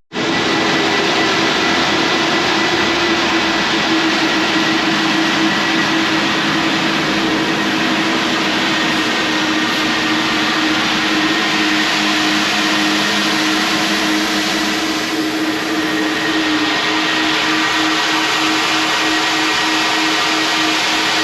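Vacuum cleaner running steadily while cleaning a car's interior: a continuous rushing of air with a motor whine that dips slightly in pitch about two-thirds of the way through.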